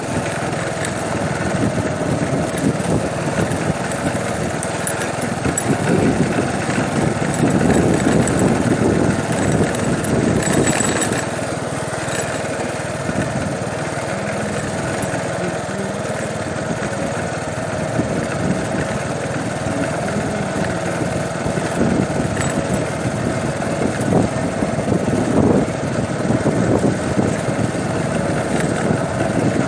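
An engine running steadily, with a constant hum and rough, fluctuating low rumble.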